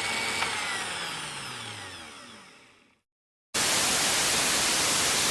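An intro sound effect: a dense sweep of many falling tones fades away over about three seconds. After a brief gap, a steady burst of hiss like static runs for about two seconds and cuts off abruptly.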